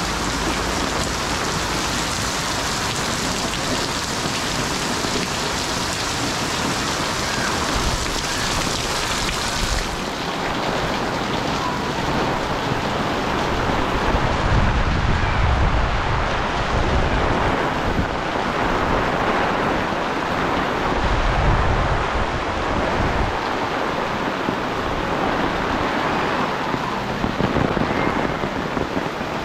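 Heavy rain pouring down on a concrete alley and pattering on an umbrella overhead, a dense steady hiss. About halfway through, and again about two-thirds through, low rumbling swells up under the rain.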